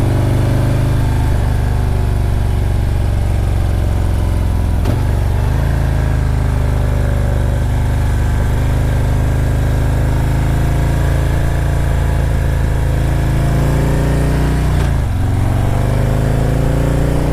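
Motorcycle engine running under way on a twisty mountain road, its note rising and falling through the curves, with two short breaks in the engine note about five and fifteen seconds in.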